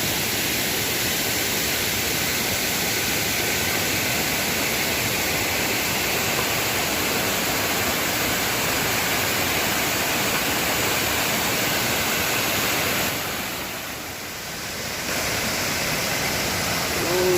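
Waterfall rushing steadily, a dense hiss of falling water; it drops away for about two seconds near the end, then comes back.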